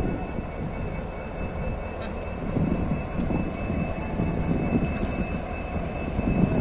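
Low, steady rumble of a train moving, with a faint steady high whine and a few light clicks near the end.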